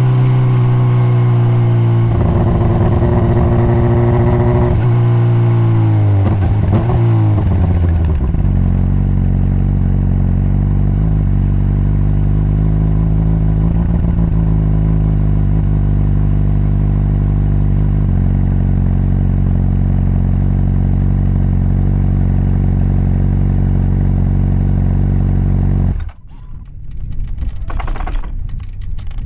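Honda CBR600RR inline-four engine on its stock exhaust, heard riding: it runs steadily, its pitch falls as the bike slows over a few seconds, then it holds a steady lower note. Near the end the sound drops off sharply and returns quieter and uneven.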